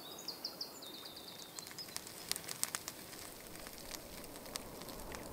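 A songbird sings one quick trilled phrase of repeated high notes in the first second and a half. It is followed by a scatter of sharp crackling clicks over a soft steady hiss of outdoor ambience.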